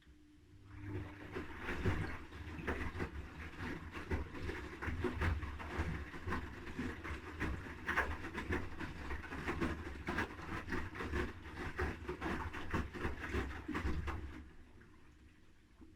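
Haier front-loading washing machine's drum turning, tumbling wet laundry with irregular sloshing and thuds over a steady low motor rumble. It starts about a second in and stops shortly before the end, one tumble stroke of the wash-rinse rhythm.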